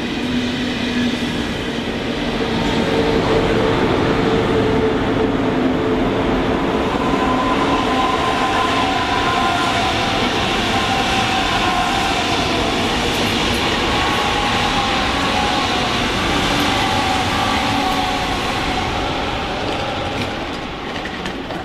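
ICE high-speed train passing close by: a steady, loud rumble of wheels on rail with a few whining tones over it, easing off near the end.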